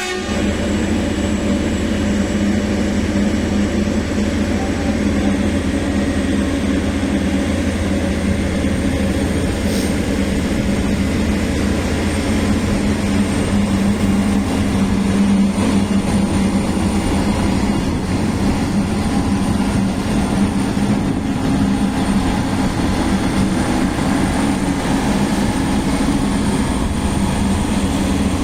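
Train running at a railway station: a steady loud rumble with a low drone and a thin high whine, unchanged throughout.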